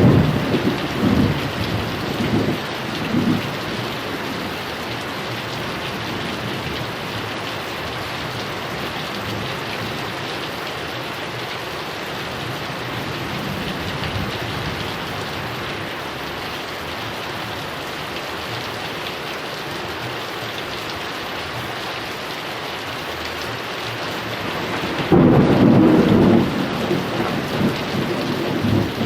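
Heavy rain falling steadily. Thunder rumbles and dies away in the first few seconds, and a loud thunderclap breaks about 25 seconds in and rolls on for several seconds.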